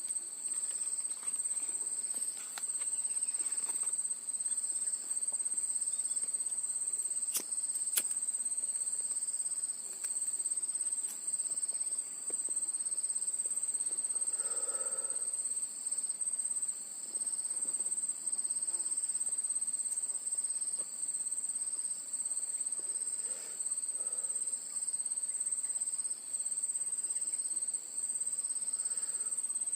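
Insect chorus: a steady high-pitched shrill over a lower trill that pulses evenly, with the whole sound dipping briefly every second or so.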